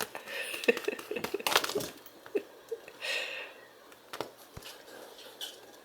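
Cats playing: a quick run of clicks, taps and knocks through the first two seconds, then scattered taps.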